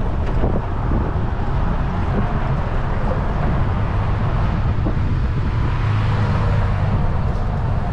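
Wind buffeting the microphone of a moving bicycle, a steady low rumble, with city street traffic behind it.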